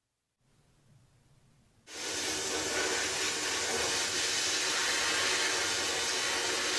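A loud, steady hiss of rushing air, the kind made by a compressed-air tool in a workshop. It starts abruptly about two seconds in after a faint stretch and cuts off near the end.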